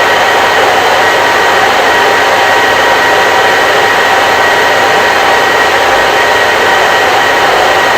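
Hair dryer running steadily: a loud, even rush of air with a faint whine of steady tones from the motor.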